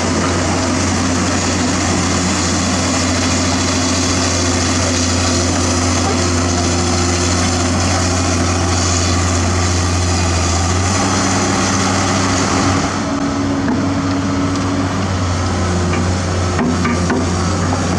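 Heavy diesel construction machinery running steadily, with a strong low engine drone whose pitch shifts about eleven seconds in. A few light knocks near the end.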